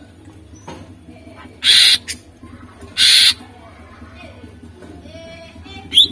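Greater green leafbird (cucak ijo) singing: soft whistled notes broken by two loud, harsh rasping calls about a second and a half apart, over a steady low hum. A quick run of sharp whistles starts at the very end.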